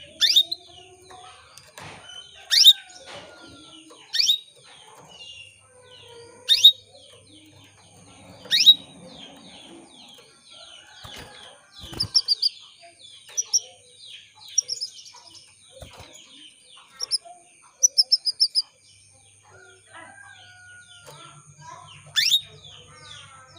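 Female canary calling: loud, sharp chirps about every two seconds, then short quick runs of repeated notes, over a continuous background of many small birds chirping. These are the hen's calls to male canaries, used as a lure to get males to sing.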